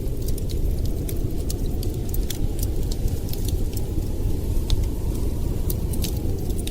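Wood fire crackling: scattered sharp pops and snaps, irregularly spaced, over a steady low rumble.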